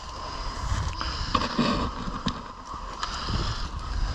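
Branches and dense undergrowth scraping and rustling against a player's clothing and gear as he pushes through scrub, with the thud of footsteps and a few sharp snaps and clicks.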